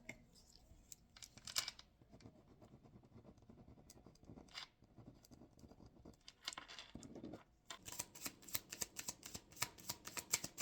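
Pen scratching on paper as something is written down, in faint short strokes. From about eight seconds in comes a quicker run of light flicking clicks, several a second.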